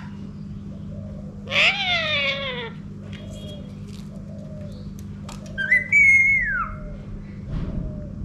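Indian ringneck parrot calling twice. About a second and a half in comes a falling, meow-like call; near six seconds a whistle rises and then falls. A steady low hum runs underneath.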